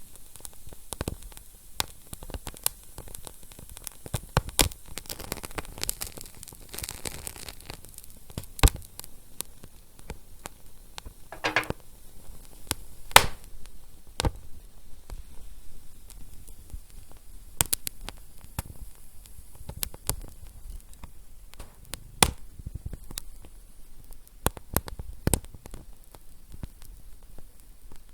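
Wood fire crackling: irregular sharp pops and snaps over a low, steady hiss, with a brief hissing burst about midway.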